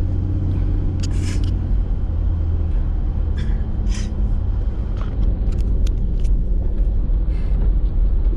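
Steady low engine and tyre rumble of a Toyota 4x4 driving on a snow-covered road, heard from inside the cab. The engine note drops slightly about a third of the way in, and a few short clicks and scrapes sound through it.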